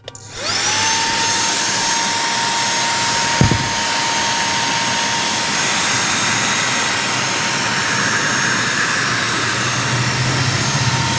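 Tusa cordless handheld vacuum cleaner switched on in its first mode: the motor spins up with a rising whine that settles into a steady high whine over the rush of air. There is a single knock about three and a half seconds in.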